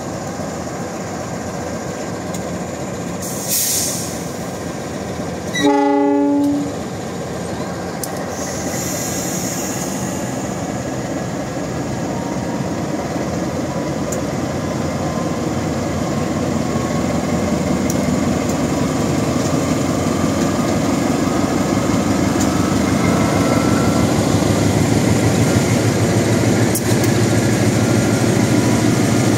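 A CC206 diesel-electric locomotive (GE-built) hauling a long coal-hopper train sounds a horn blast of about a second, several notes together, about six seconds in. Short hisses come just before and after it. The locomotive's engine and the train's wheels run steadily underneath, growing louder through the second half as the locomotives come close.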